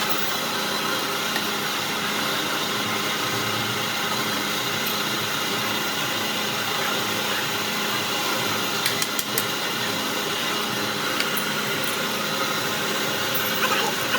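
Steady hum of a running machine or motor, with a few light clicks about nine seconds in.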